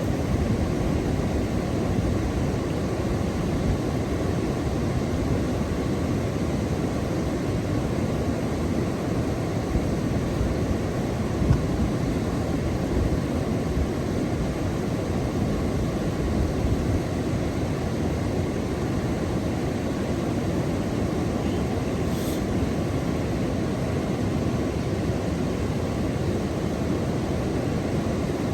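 Steady low rumbling noise, even throughout, with no distinct events or pitched sounds.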